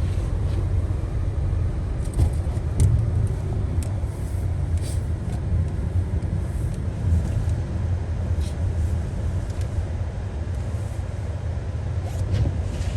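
Steady low road and engine rumble heard from inside a car driving on a snowy highway, with a few scattered short ticks or knocks.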